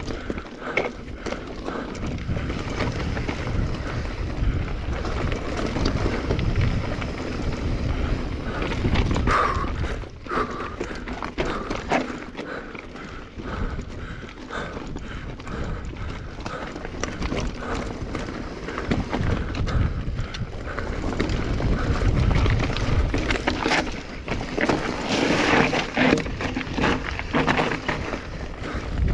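Mountain bike riding down a dirt and rock trail: tyres crunching over the ground, and the frame and chain rattling and knocking over bumps. Wind buffets the chest-mounted action-camera microphone. It gets louder and rougher about three quarters of the way through.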